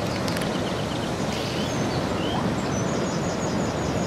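Steady outdoor noise of wind and surf on a beach, with a few faint high bird chirps, including a short run of quick repeated chirps about three seconds in.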